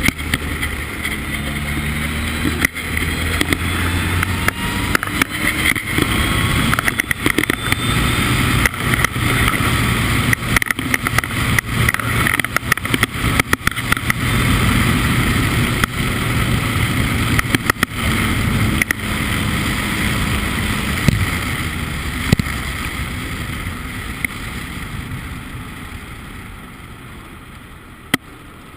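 Formula Ford race car engine running hard with heavy wind rush and many short knocks, likely from buffeting on the microphone. The sound steadily dies away over the last few seconds.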